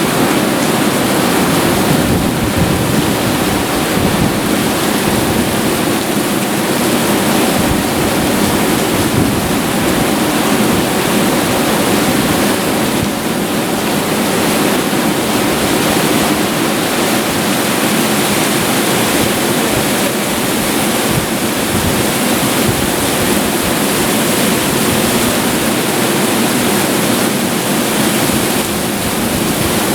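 Heavy thunderstorm downpour: a loud, steady rush of rain that does not let up.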